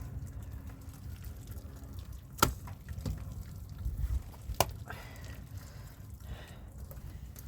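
Water dripping and trickling, with two sharp knocks about two seconds apart.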